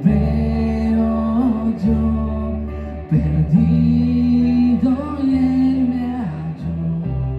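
Live worship band playing a slow song, with a voice singing long held notes that bend between pitches over a steady bass.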